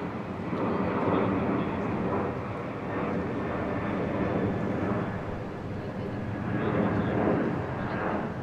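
A heavy vehicle's engine running, its sound swelling and easing a few times.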